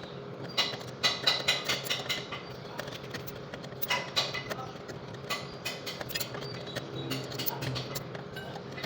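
Metal tools clinking and tapping against metal parts in a run of short, sharp knocks, over a steady low hum.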